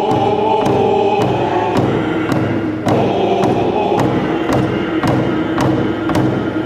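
A group of voices singing a chant-like Northwest Coast Native song together over a steady hand-drum beat, a little under two beats a second.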